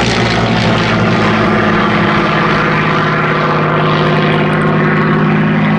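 Spitfire's Rolls-Royce Merlin V12 piston engine running steadily under power as the aircraft flies its display, a continuous propeller-engine drone.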